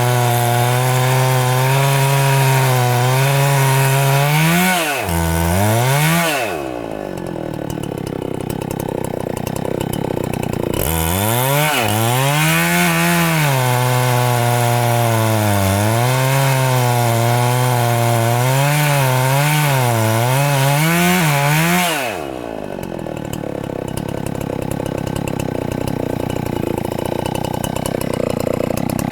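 Chainsaw at full throttle cutting into a very thick tree trunk, its engine pitch sagging and wavering as the saw labours under the load. The throttle is released about seven seconds in, opened up again near eleven seconds, and eased off again near twenty-two seconds.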